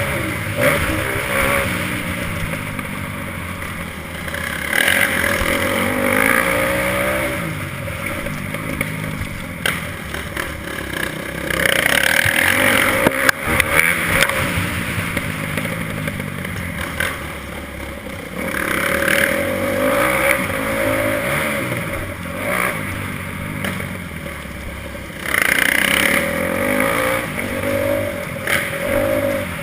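Motocross bike engine being ridden hard, its revs climbing and dropping back again and again every few seconds, with louder surges in between.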